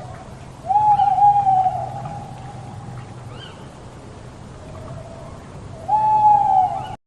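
An animal's long, steady calls: two loud ones, one about a second in and one near the end, each falling slightly in pitch, with a fainter call between them. Faint, short, high bird chirps sound in the background.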